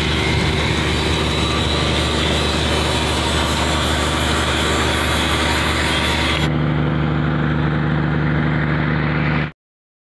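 A vehicle's steady running noise with a constant low hum. Its tone turns duller about six and a half seconds in, and it cuts off abruptly shortly before the end.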